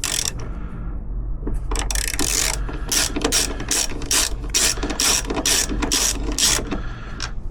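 Hand socket ratchet working a bolt, its pawl clicking in a run of quick, evenly repeated strokes, about two or three a second.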